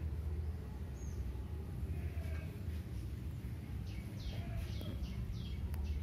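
A small bird chirping over and over from about four seconds in, short falling chirps a few times a second, over a steady low rumble.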